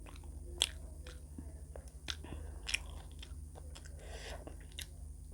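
A person chewing and biting food close to the microphone, wet mouth sounds with a few sharp crunchy clicks scattered through, over a low steady hum.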